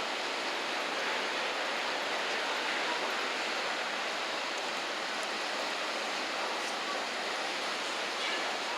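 Steady rushing noise of riverside ambience, even throughout with no distinct events.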